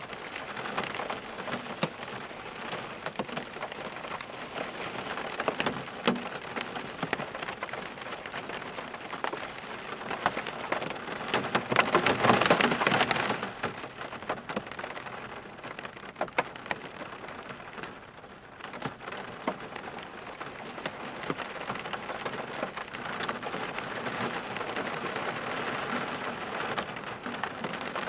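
Steady rain falling, with individual drops striking close by, and a louder, heavier surge for about two seconds around twelve seconds in.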